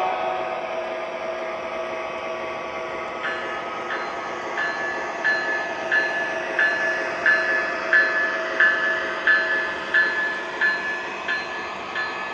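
MTH ES44AC model diesel locomotive's Proto-Sound 3 sound system playing a steady diesel engine drone. About three seconds in, the locomotive bell starts ringing at a little under two strokes a second, growing louder and then fading.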